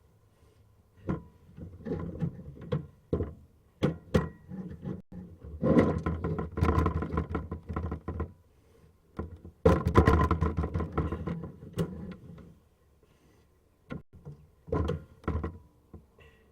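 Sewer inspection camera's push cable being worked through the drain line: irregular knocks and clicks, with two longer spells of rattling scrape.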